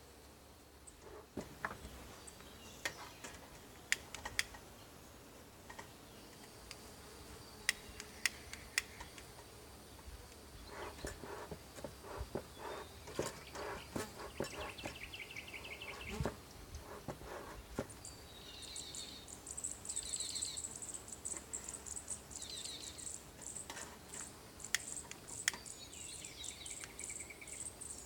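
Insects chirping in short, rapidly pulsed high trills that come in repeatedly over the second half, over scattered clicks and knocks and a run of quick rustling strokes from handling equipment while working the smoker.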